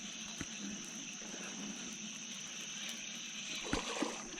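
Water splashing and trickling as a hooked bass is worked to the side of the boat, with a few short knocks near the end. Under it runs a steady high-pitched buzz.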